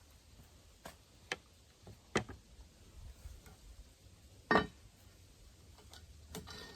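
A few scattered sharp clicks and light knocks from handling cookware, the loudest a little over four seconds in.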